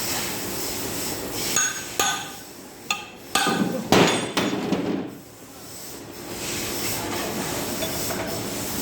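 Metal being struck during the dismantling of a twin-lobe compressor: a run of sharp, hammer-like clanks with a brief ring, the loudest about four seconds in. Steady background noise fills the rest.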